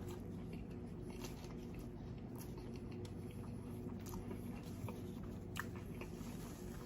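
Person chewing food close to the microphone, with scattered soft wet mouth clicks; a sharper click about five and a half seconds in. A steady low hum runs underneath.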